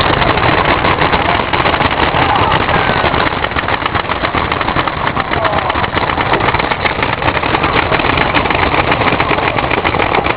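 Dense, continuous crackle of many paintball markers firing at once, a rapid rattle of shots, with faint distant shouting under it.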